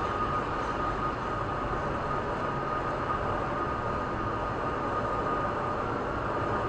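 Steady running noise of a moving vehicle, an even rumble with a faint steady whine above it.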